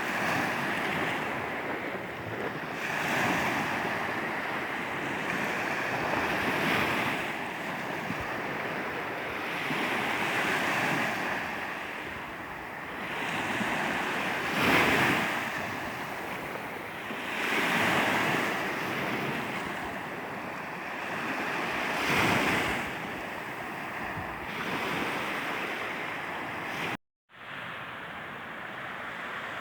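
Sea waves washing onto a beach, the rush swelling and falling away every few seconds, with wind buffeting the microphone. The sound cuts out for a moment near the end.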